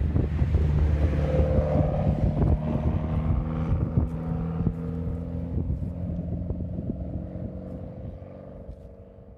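Tuned Mitsubishi Lancer Evolution X's turbocharged four-cylinder engine and exhaust running at a steady note as the car drives, with wind and road noise and scattered sharp crackles. The sound fades away gradually over the last few seconds.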